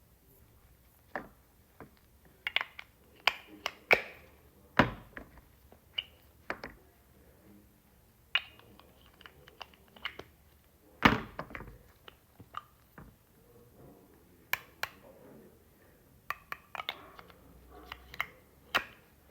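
Toy eggs being handled, opened and knocked: irregular clicks, taps and thunks, a couple of them much louder.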